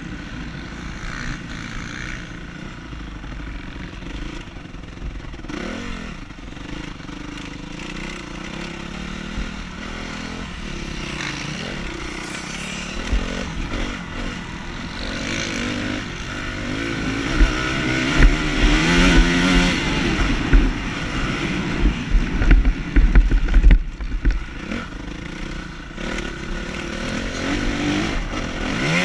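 Motocross bike engine heard from on board while riding a dirt track, the revs rising and falling through gear changes. It gets louder and harder-revving about two-thirds of the way through, with a rough low rumble of wind and ground buffeting on the microphone.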